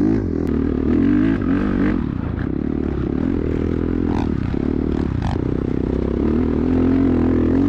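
Off-road vehicle engine running steadily under way, with pitch shifting as it works, and a few light knocks over it.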